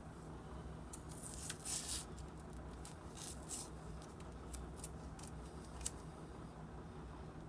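Metal blades of antique hand grass trimmers being worked, giving short scraping snips about a second in and again around three seconds, then a few sharp single clicks, over a low steady hum.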